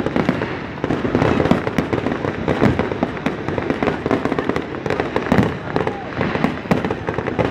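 Fireworks display: a dense, unbroken run of crackles and pops with louder bangs among them.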